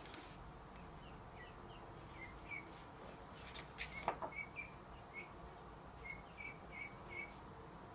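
Faint bird chirping, a string of short, high chirps repeated irregularly, with a couple of sharp clicks about halfway through.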